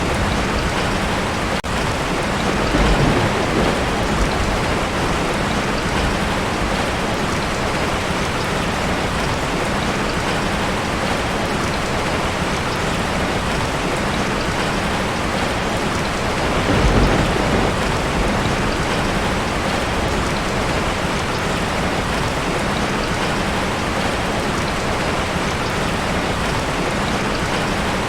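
Heavy rain drumming steadily on a tin roof, with two low rumbles of thunder swelling up, one a few seconds in and one a little past the middle.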